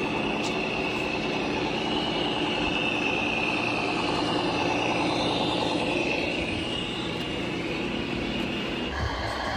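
Radio-controlled model vehicle running: a steady mechanical hum with a high motor whine that drifts slowly up and down in pitch. The whine stops near the end and a different steady sound takes over.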